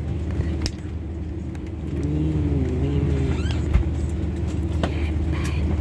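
Steady low drone of a parked Airbus A320's cabin air system during boarding. A brief voice-like sound comes about two seconds in, and a few light clicks.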